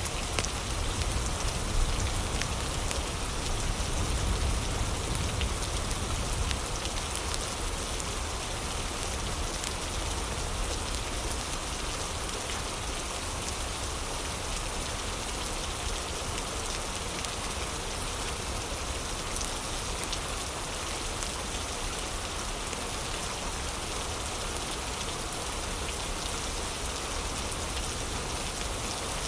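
Heavy rain falling steadily, a dense even hiss, with light crackling from a wood fire.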